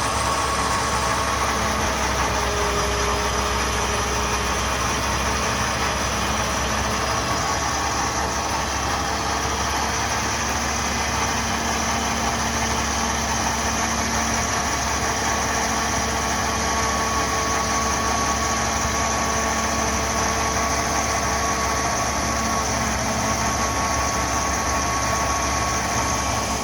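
An engine running steadily and evenly, with a faint steady whine over it.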